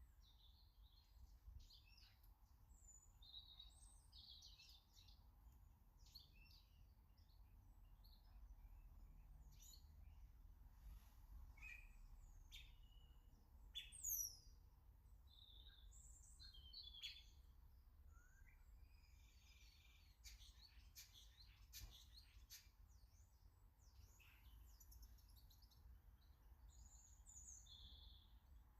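Small garden birds calling: a scatter of short, faint chirps and calls, with one louder falling call about fourteen seconds in, over a low steady background rumble.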